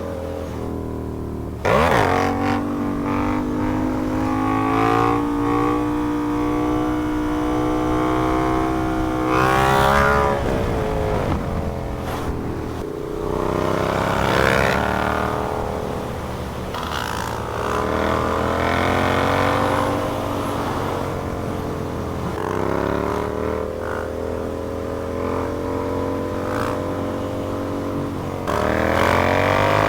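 Sportbike engine pulling hard through the gears, its pitch climbing steadily and then dropping suddenly at each upshift. It slows with a falling pitch about ten seconds in, then accelerates again.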